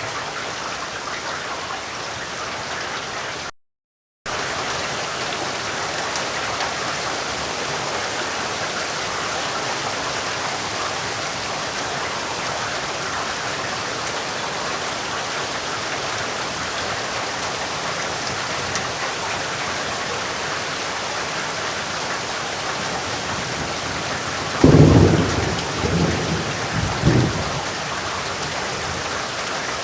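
Steady rain falling, with a brief dropout to silence about four seconds in. Near the end a thunderclap breaks out, loudest at its start, followed by a few lower rolling peaks of thunder over about three seconds.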